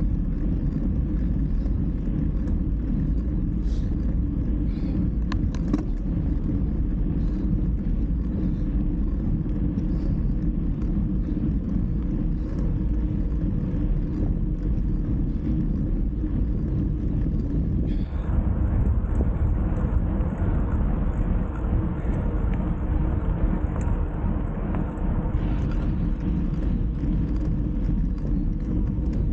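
Steady low rumble of wind and road noise while riding along, with a louder hiss from about 18 seconds that drops back near 25 seconds.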